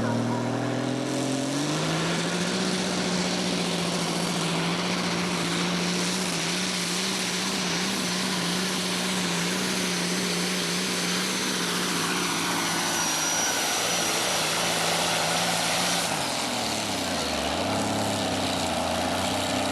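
Volvo pulling machine's engine at full throttle under load during a tractor pull: the revs climb over the first two seconds, hold high and steady for a long stretch, then drop off about sixteen seconds in as the run ends.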